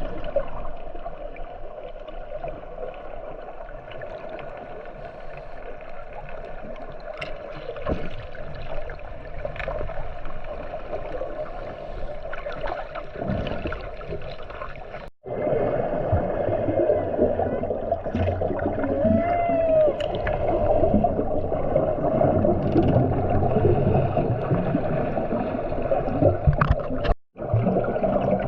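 Muffled underwater sound from a submerged camera: a steady rushing hiss with gurgling and scattered knocks, and a short rising-and-falling tone about two-thirds of the way through. The sound cuts out for a split second twice.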